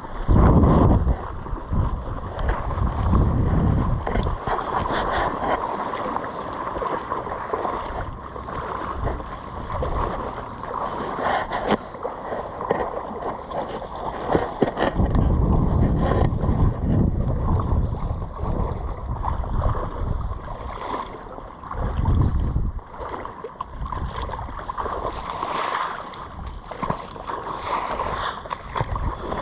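Wind buffeting the microphone in gusts, over a steady rush of flowing floodwater.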